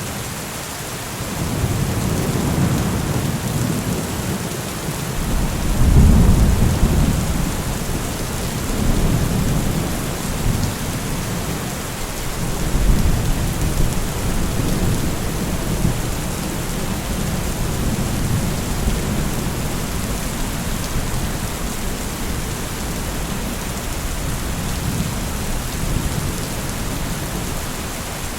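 Steady rain with low rolling thunder rumbling underneath, swelling and fading. The loudest roll comes about six seconds in, and another comes around thirteen seconds.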